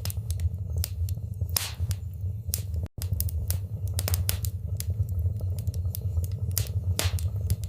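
Wood fire burning in a fireplace, crackling with many irregular sharp pops over a steady low rumble. The sound cuts out for an instant about three seconds in.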